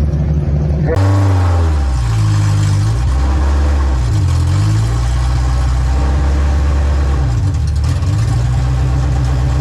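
Mini stock dirt-track race car engine running, its note rising and falling as the throttle is worked. The sound changes abruptly about a second in.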